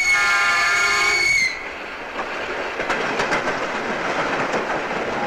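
A train horn sounds one loud held note for about a second and a half, dipping slightly as it cuts off. An electric commuter train then runs past, its wheels clattering over the rails with a steady rumble and irregular clicks.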